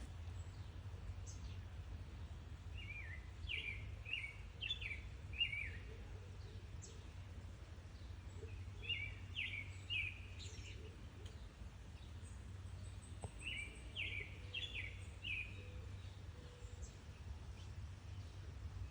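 A bird chirping in short bursts of quick notes every few seconds, over a steady low background rumble.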